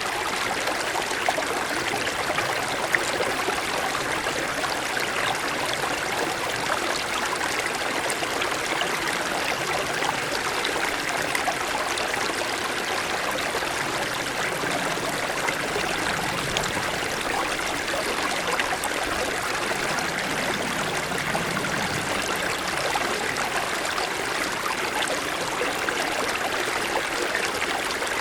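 Mountain stream flowing steadily over snow-covered stones, a continuous rushing with small splashes and trickles.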